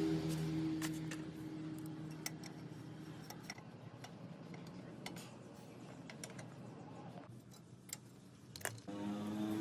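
Small four-stroke petrol engine running at a low, steady speed, fading out over the first few seconds. Scattered light clicks and taps follow. Near the end an engine starts up and gets louder.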